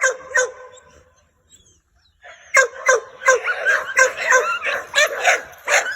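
Pit bull-type dogs in a kennel yard barking: two barks, a short quiet gap, then rapid, continuous barking from about halfway through.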